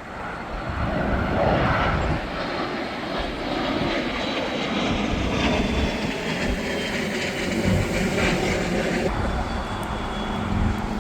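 Jet airliner's engines passing close, loud, swelling up in the first second and then holding steady, with a high whine falling slowly in pitch through the middle.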